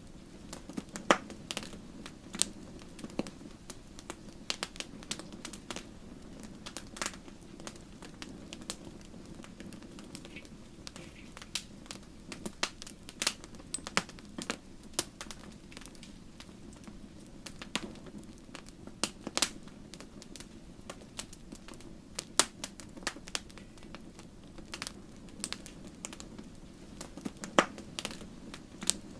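Wood fire burning in a fireplace: logs crackling and popping irregularly, with a few sharper, louder pops, over a steady low background of the flames.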